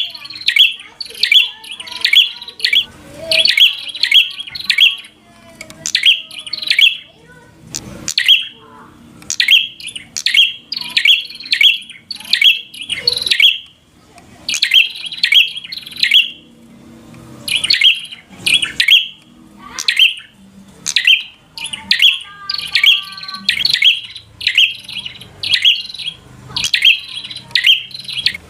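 Prenjak (prinia) singing in full voice: rapid runs of sharp, high, chattering call notes, a few per second, broken by short pauses, the excited 'gacor' calling used to provoke a rival prenjak.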